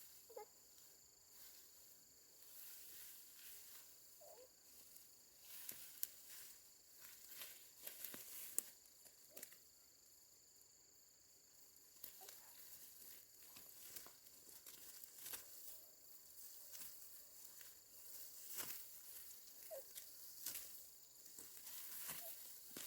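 Faint outdoor ambience: a steady high insect drone with scattered soft rustles and crackles.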